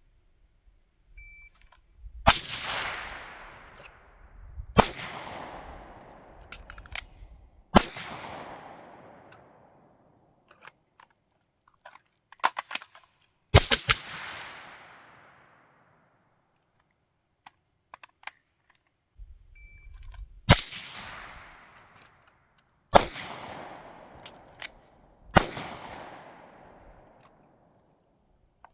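Gunshots from a firearm at a range, about seven single shots fired a few seconds apart in two strings of three with one more between, each crack trailing off in a long echo of about two seconds. Small clicks of gun handling come between some shots.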